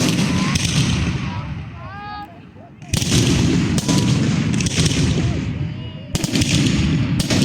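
Fireworks going off: a sharp bang at the start, another about three seconds in and a third about six seconds in, each followed by a spell of dense crackling.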